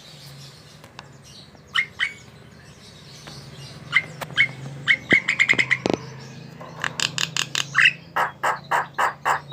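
Javan myna calling: a few sharp whistled notes, a quick run of clipped chirps about five seconds in, then a series of harsher, noisier notes at about three a second near the end.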